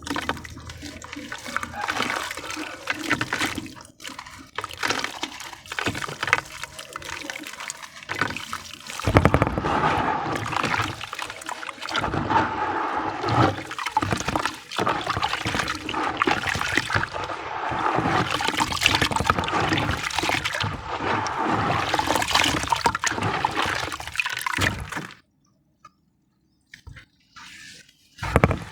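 Sand discs topped with white cement crumbling and breaking apart in water: dense wet crackling and sloshing with many small cracks. The sound drops out for about three seconds near the end, then resumes.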